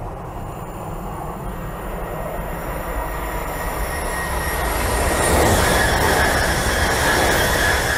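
High-speed train approaching and passing at speed: a rushing noise that builds steadily and is loudest from about five and a half seconds in, with a thin steady high whine over it.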